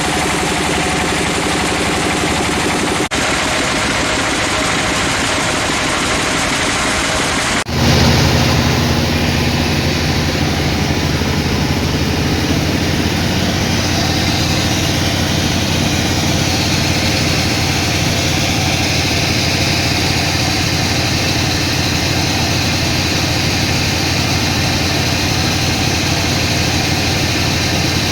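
Engine-driven sawmill machinery running steadily. The sound breaks off abruptly twice, about three and eight seconds in, and after the second break a lower, pulsing engine note carries on evenly.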